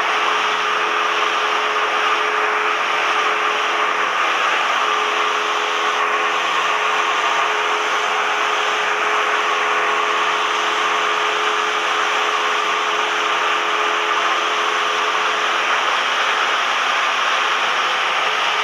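Cessna 172M's four-cylinder Lycoming engine and propeller running steadily, heard as an even drone from the cabin with a constant hum, no change in speed.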